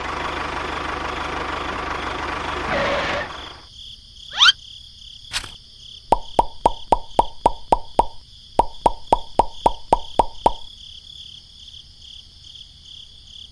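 Added sound effects. A loud, even motor-like noise lasts about three seconds, then comes a quick rising whistle and a click. Two runs of short pitched pops follow, about four a second, over a faint steady chirping of crickets.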